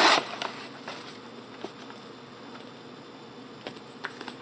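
Faint steady buzzing hiss with a few soft clicks from trading cards being handled.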